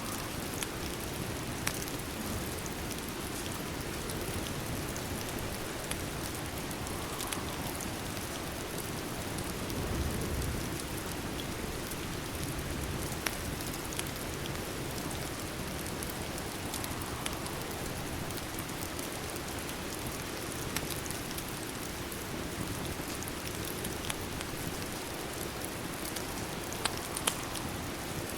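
Steady rain ambience with a few sharp, scattered crackles of a wood fire, and a brief low rumble about ten seconds in.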